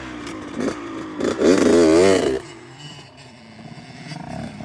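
Dirt bike engine revving, its pitch climbing and wavering as the throttle is worked, loudest between about one and two and a half seconds in, then falling back to a fainter running sound.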